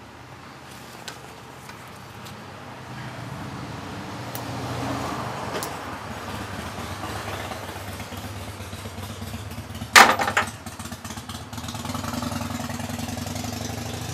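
An engine running steadily at a low hum, with one loud sharp clank about ten seconds in.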